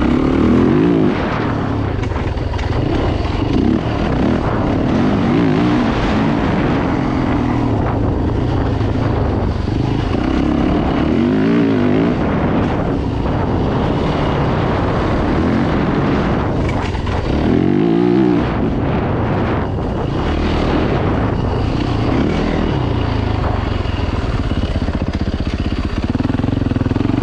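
Dirt bike engines running hard, the pitch rising and falling again and again as the throttle is opened and closed.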